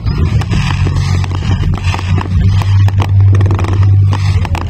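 Fireworks display: a rapid run of bangs and crackles over a deep, continuous rumble that swells loudest past the middle.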